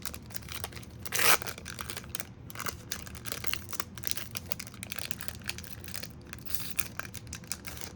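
Foil booster-pack wrapper torn open in one short rip about a second in, then crinkling with many small crackles as the wrapper is handled and the cards are slid out.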